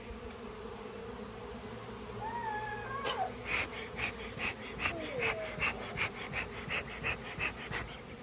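Honeybees buzzing in a steady hum around a hive that is being robbed, with a few passing bees changing pitch as they fly by. From about three seconds in comes a regular run of short crunching sounds, about three a second.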